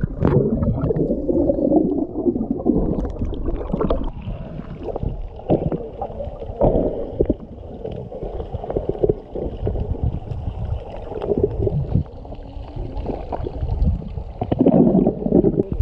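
Muffled sloshing and gurgling of water around a GoPro camera in its waterproof housing while snorkeling, with irregular splashes and knocks every second or two.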